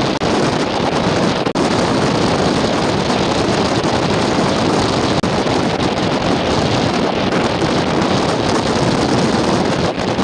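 Strong wind buffeting the microphone: a loud, steady rush of noise that barely lets up, with a couple of momentary dips.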